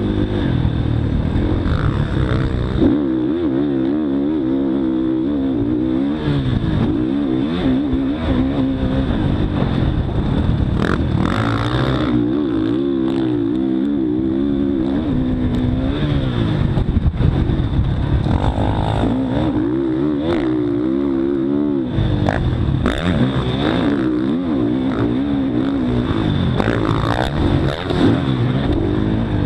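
Motocross dirt bike engine revving up and down again and again as it is ridden, heard up close from an onboard action camera, with wind noise and occasional knocks.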